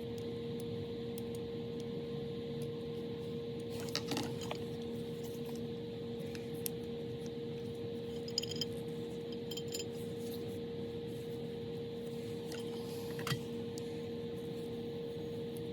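A few light clicks and clinks of small hard parts being handled and set down, over a steady electrical-sounding hum.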